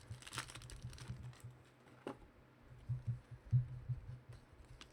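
Light, irregular clicks and taps of trading cards and pack wrappers being handled, over a steady low hum.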